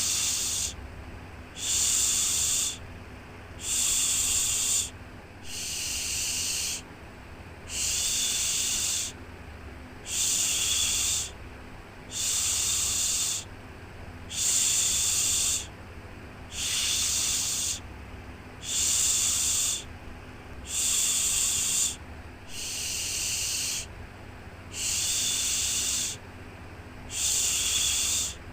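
Rhythmic 'shhh' shushing for soothing a baby to sleep: a hissing shush about a second long repeats about every two seconds, over a steady low rumble.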